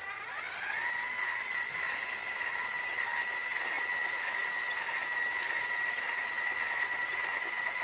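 Small electric motor and gearbox of a radio-controlled truck whining, rising in pitch over the first second and then running at a steady speed. Faint short high chirps repeat in the background.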